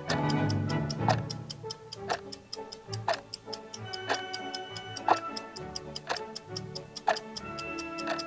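Clock-style ticking sound effect, a louder tick once a second with lighter ticks about four times a second, over background music with sustained notes.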